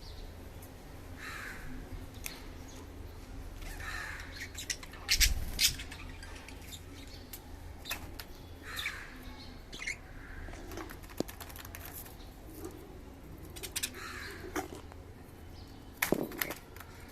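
Budgerigars chirping now and then, short calls every second or two, mixed with scattered sharp clicks and taps; the loudest clicks come about five seconds in and near the end.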